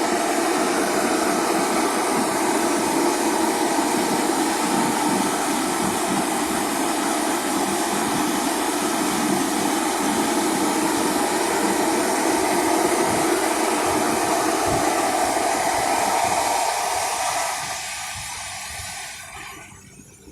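A steady, loud rushing noise with a held droning tone in it, fading away over the last few seconds.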